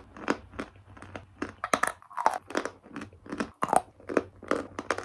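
A person chewing a mouthful of chalk close to the microphone: rapid, crisp crunches, about three a second.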